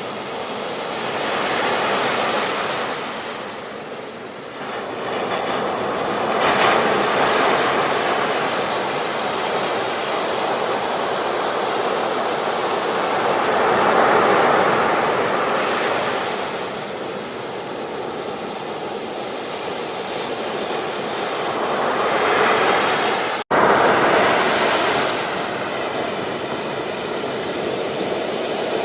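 Sea waves breaking and washing up a beach, a continuous surf noise that swells and ebbs as each wave comes in. The sound drops out for an instant about three quarters of the way through, then the surf carries on.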